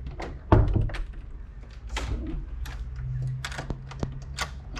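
Irregular clicks and knocks from footsteps and handling of a hand-held camera as someone starts walking, the loudest knock about half a second in.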